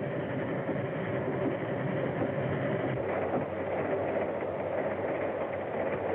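Moving train: a steady running rumble and rattle of the wheels and cars.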